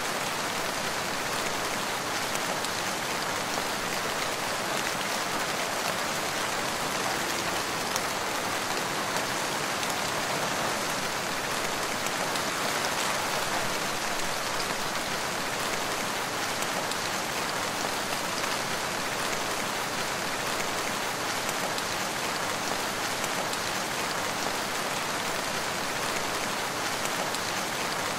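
Steady rain falling, an even hiss that neither swells nor breaks, with no thunder.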